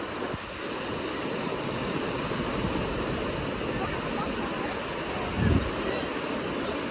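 Sea surf on a beach: a steady rush of waves breaking and washing ashore. About five and a half seconds in there is a brief low thump.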